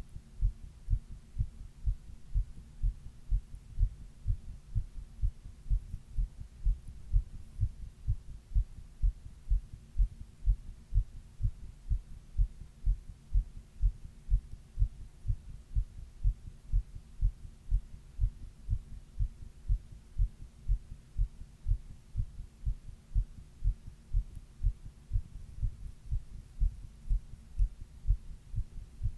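A person's own heart sounds: a steady, even rhythm of low thuds, about two a second, recorded while she had a 102-degree fever.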